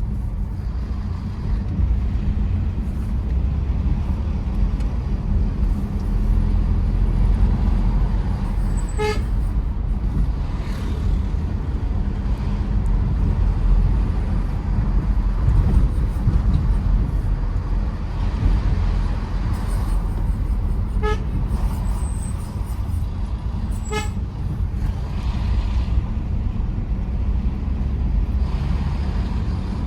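Tata Safari Storme SUV's diesel engine and road noise, a steady low rumble while driving. A car horn toots briefly three times: once about a third of the way in, and twice about two-thirds of the way in.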